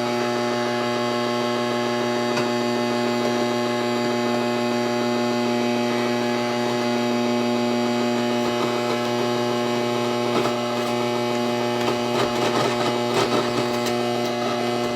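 A steady electrical hum with a stack of even overtones, with a few light clicks and rattles about ten to fourteen seconds in.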